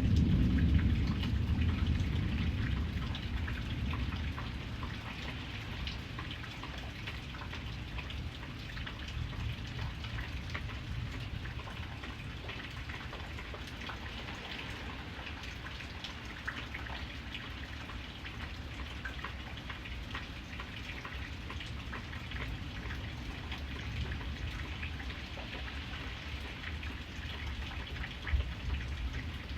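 Steady rain falling, with many individual drops ticking on a surface. A low rumble fades away over the first few seconds.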